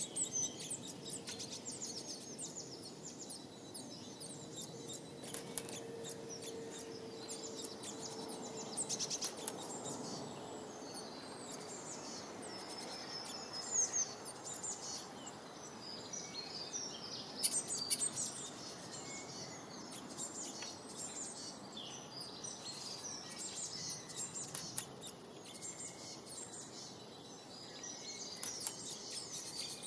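Many small songbirds chirping and twittering together in quick, high calls and trills, over a steady background hiss.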